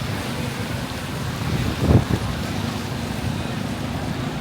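Wind buffeting the microphone over a steady rumble of city street noise, with one short, strong gust about two seconds in.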